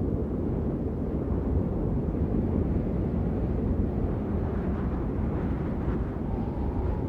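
Steady rain sound: a dense, muffled hiss with most of its weight low down and little treble.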